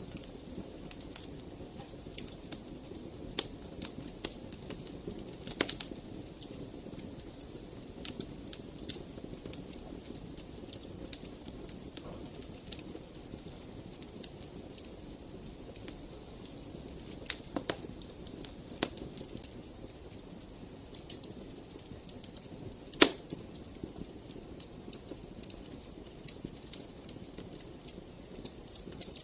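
Wood fire in a fireplace crackling, with irregular sharp pops over a steady low sound of burning and one louder pop a little past the three-quarter mark.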